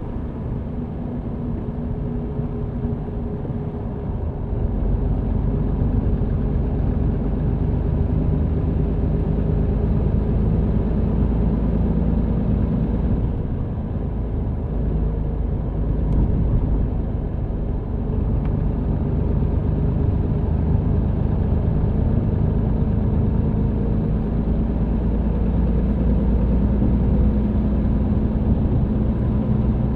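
MAN TGX truck engine running while driving, heard inside the cab with low road rumble. It gets louder about five seconds in, eases off briefly around the middle, then picks up again.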